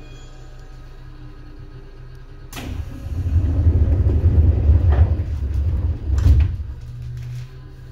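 Seibu 2000 series electric train heard from inside a motor car: a steady low hum, then a sudden burst about two and a half seconds in. A loud low rumble with a couple of clacks follows for about four seconds before the hum settles back.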